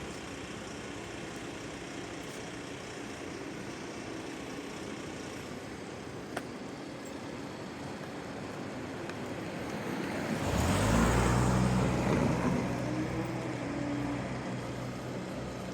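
Steady traffic noise, then a motor vehicle passes close about ten seconds in: its engine grows loud for a couple of seconds and then fades away.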